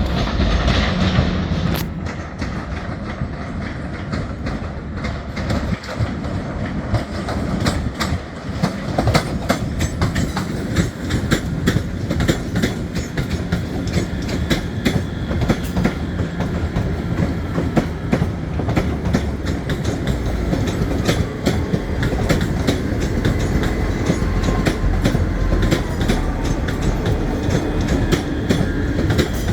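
A train moving through the station, its wheels clicking and clattering over the rail joints throughout, over a steady low rumble.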